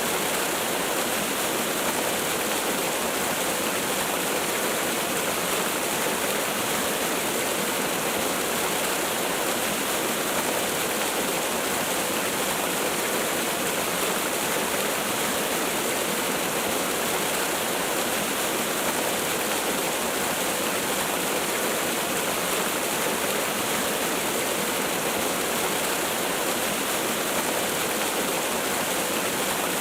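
Waterfall: water falling in a steady, unbroken rush, with little deep rumble.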